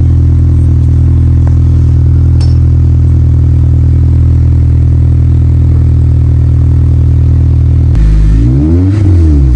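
8th-generation Honda Civic Si's K20 inline-four idling steadily through a newly fitted J2 Engineering cat-back exhaust, then revved quickly up and back down near the end.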